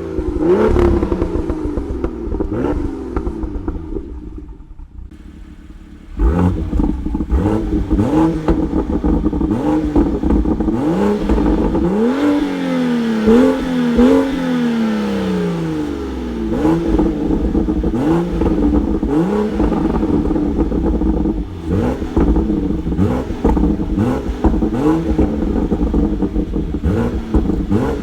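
2018 BMW M2's turbocharged inline-six, on the stock exhaust, revved repeatedly in quick blips that rise and fall in pitch, with pops and crackles from the exhaust as the revs drop. It settles to a quieter idle for about two seconds, about four seconds in, then the revving resumes.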